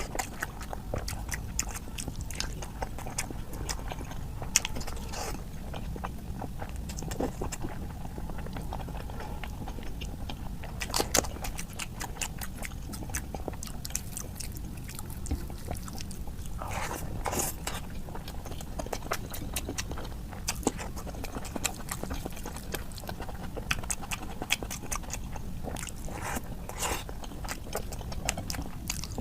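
Close-miked chewing and wet mouth sounds of a person eating curry with rice, with many short clicks and smacks over a steady low hum.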